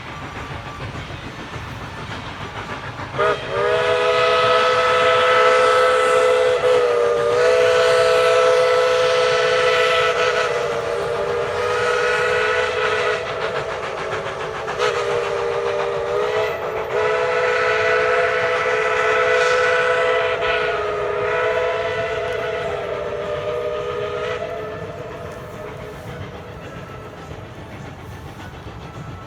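Steam locomotive No. 190's original White Pass chime whistle sounding one long chord of several notes, which starts about three seconds in and fades out after about twenty seconds. The chord dips and wavers briefly twice as the whistle valve is worked. The train's running rumble goes on underneath.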